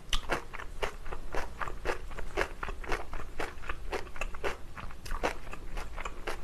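Close-miked chewing of a mouthful of kimchi fried rice with Spam and flying fish roe: a quick run of crunchy chewing clicks, several a second.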